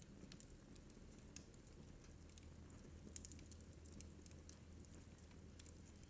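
Wood fire crackling faintly in a fireplace: irregular small pops and snaps over a low steady hum.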